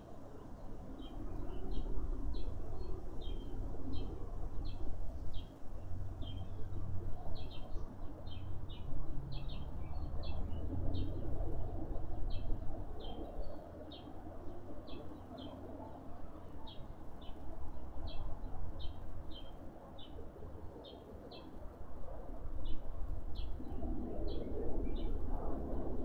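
A small bird chirping a long run of short, high notes, about two a second, over a low rumble of wind on the microphone.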